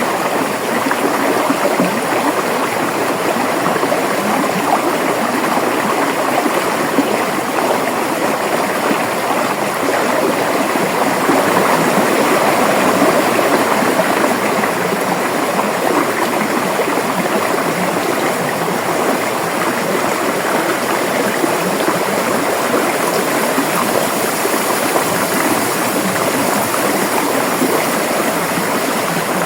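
River water flowing and gurgling over rocks, a steady, unbroken rush.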